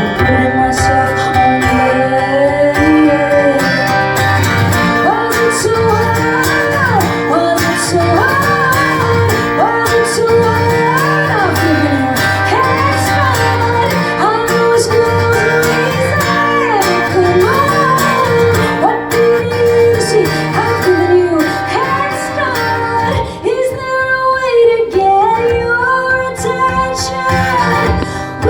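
Live band playing a pop-rock song, a woman singing lead over guitar and bass. About 23 seconds in, the low end drops out, leaving the voice over lighter accompaniment.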